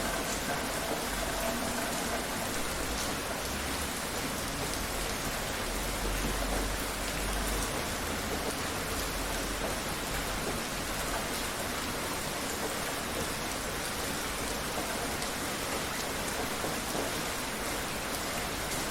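Steady rain falling, an even, dense patter of drops on surfaces.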